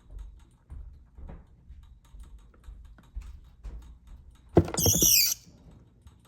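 Light scratching and rustling, then about four and a half seconds in a loud, high-pitched squeal lasting under a second: a feeder rat squealing as the snake strikes and seizes it.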